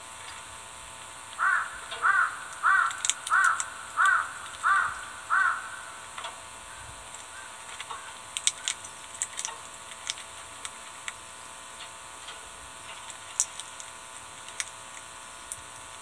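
A bird calling seven times in quick succession, about two-thirds of a second apart, followed by a scatter of light sharp clicks, typical of small birds pecking and cracking sunflower seeds at a feeder.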